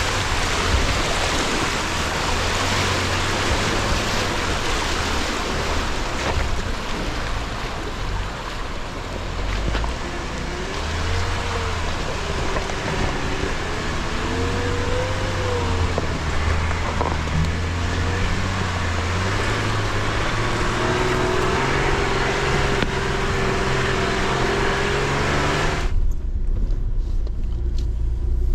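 Jeep Gladiator Rubicon driving on a dirt trail: a steady low engine rumble under a loud rushing hiss. The hiss cuts off abruptly near the end, leaving the rumble.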